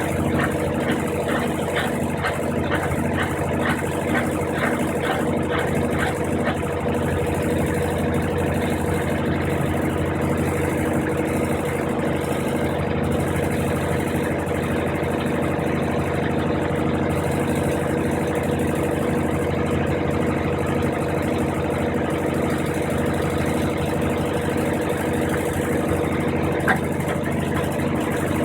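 Brastemp 15 kg top-load washing machine running steadily in its spin cycle: a constant motor hum, with faint rhythmic ticking during the first several seconds.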